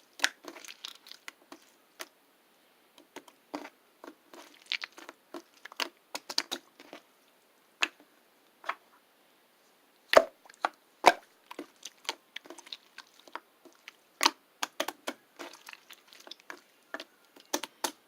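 Irregular light clicks and taps, a few to several a second in uneven runs, with two louder knocks about ten and eleven seconds in.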